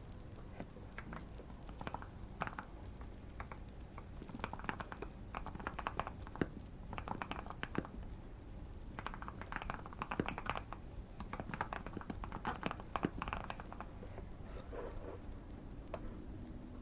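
Typing on a Keychron Q1 mechanical keyboard with tape and PE foam mods and Fierce Girl switches, keys clacking in several quick runs with short pauses between, over faint fireplace crackling.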